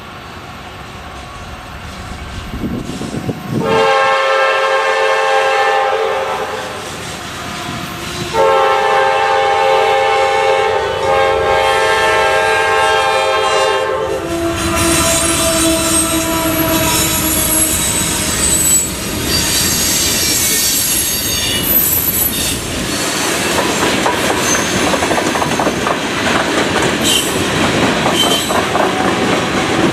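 A CSX GE AC4400CW diesel locomotive sounds two long horn blasts, the second longer, as it approaches the grade crossing. The train then rolls past, with wheels clattering over the rail joints and high-pitched wheel squeal.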